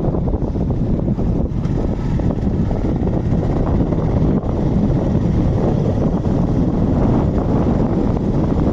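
Steady wind buffeting the microphone during a bike ride, a dense low rumble with road and vehicle noise underneath.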